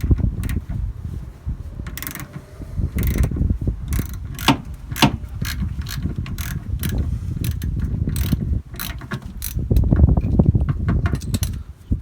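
Socket ratchet clicking in short, irregular runs while a 9/16-inch deep socket unscrews a fuel filter from a generator, over low handling rumble.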